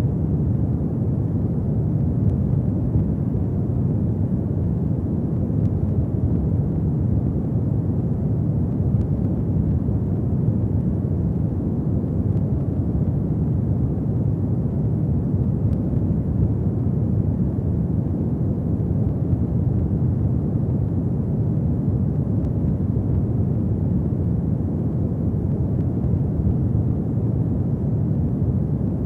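Fireplace fire burning with a steady low rumble, without pronounced crackles.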